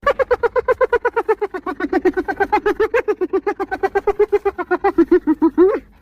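Spotted hyena giggling: one long run of rapid pitched notes, about ten a second, dropping a little in pitch over the first two seconds and breaking off just before the end.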